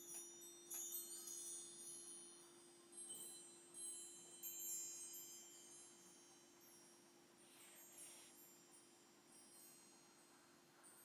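Faint, high metal chimes tinkling in a cluster, thickest in the first few seconds and thinning out, over the steady low tone of a crystal singing bowl.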